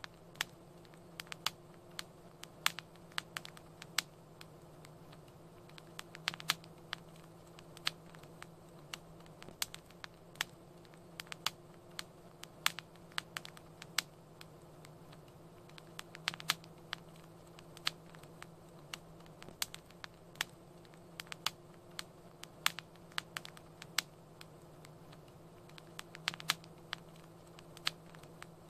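Crackling fire: irregular sharp pops and snaps, several a second at times, over a soft steady hiss and a faint low hum.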